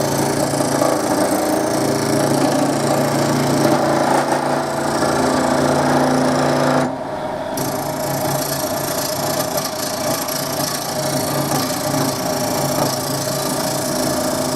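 Wood lathe running, a steady motor hum under the rough noise of a skew chisel cutting the side of a green-wood blank. About seven seconds in, the cutting noise drops and the rest is quieter.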